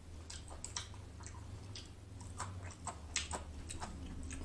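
Close-miked chewing of a mouthful of fried chicken sandwich: soft, irregular wet mouth clicks and light crunches, about a dozen in a few seconds, over a low steady hum.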